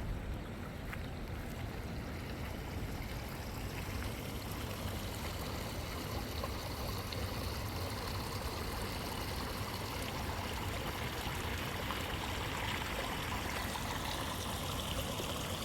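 Flooded river water rushing steadily, with a slight increase in its hiss toward the end.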